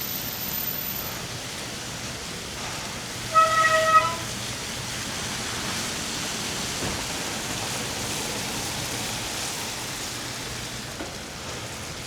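Steady rush of wind and tyres on a slushy street while cycling, with a short, high horn beep about three and a half seconds in.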